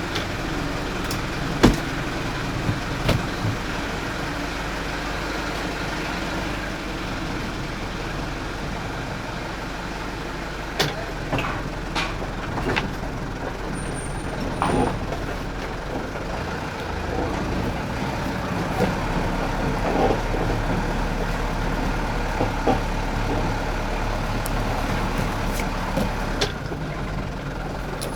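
Truck running, a steady engine drone with scattered short clicks and knocks.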